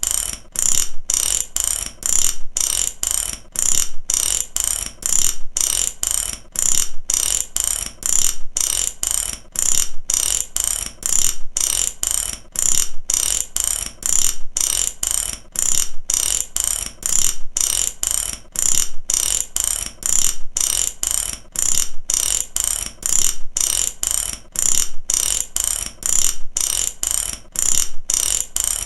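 Ratchet wrench clicking in repeated strokes, a quick run of sharp clicks about once a second with brief pauses between.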